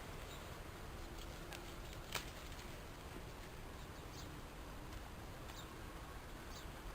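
Faint, short high squeaks or chirps from small animals, a handful of them with the loudest about two seconds in, over a steady low hiss.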